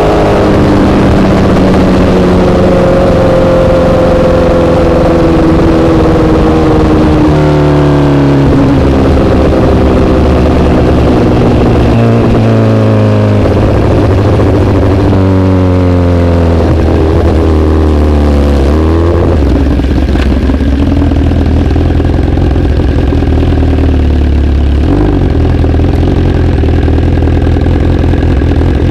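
Honda CBR1000RR's inline-four engine through an SC-Project aftermarket exhaust, its revs falling as the bike slows and rising sharply about three times, as with downshifts. In the last third it settles to a low, steady note.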